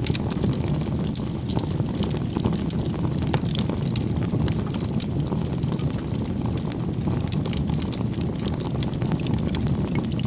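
Wood fire burning: a steady low rumble of flames with frequent small crackles and pops scattered throughout.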